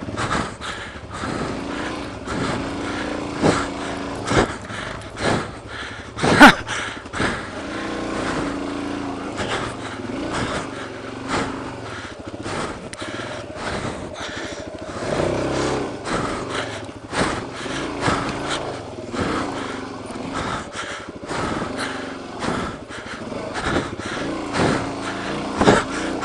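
Suzuki DR-Z400's single-cylinder four-stroke engine running at low revs, rising and falling as the bike is picked over rocks, with frequent knocks and clatters of the tyres and suspension hitting stone. One sharp knock about six seconds in is the loudest sound.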